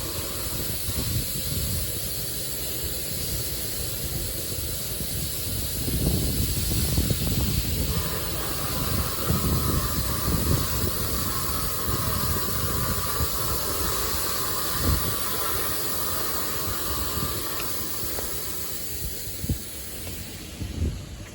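High-pressure water jets of a LaserWash 360 touchless automatic car wash spraying the car, a steady hiss over low rumbling. A higher, steadier tone joins about eight seconds in and fades out a couple of seconds before the end.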